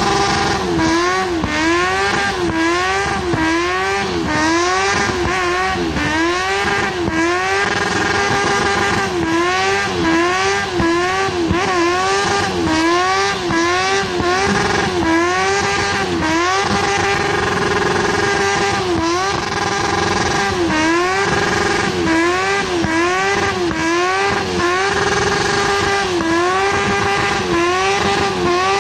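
Car engine held at high revs during a burnout, its pitch dipping and climbing back again and again, about once a second, over a steady hiss of spinning tyres.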